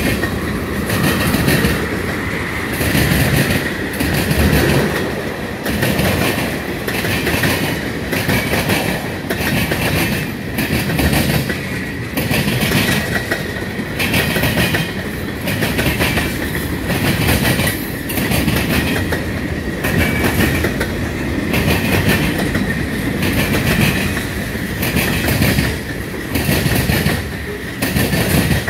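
Freight train cars (tank cars and covered hoppers) rolling past, their wheels clicking rhythmically over the rail joints in a repeating clickety-clack, with a steady high whine running under the clatter.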